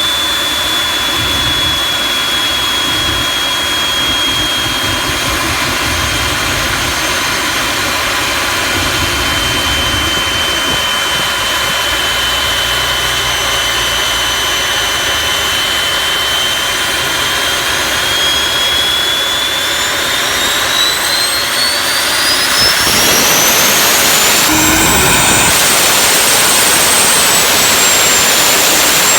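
Jet engine turbine whine with rushing exhaust, steady at first, then spooling up with a high whine that rises steeply in pitch over several seconds about two-thirds of the way through, then holds at the higher pitch, louder.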